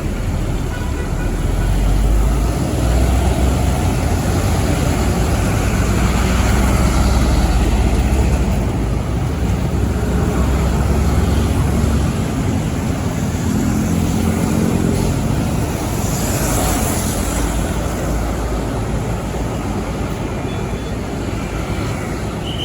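Heavy trucks driving past on the road, with diesel engines running; the low engine sound is heaviest in the first half. A short hiss comes about two-thirds of the way through.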